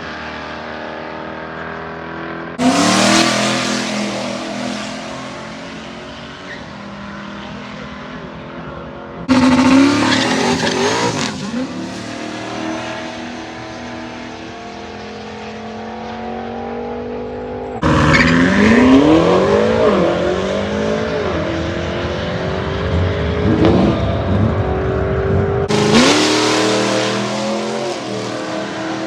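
Drag-racing car engines revving and accelerating hard, their pitch climbing and dropping again and again. The sound jumps sharply louder four times.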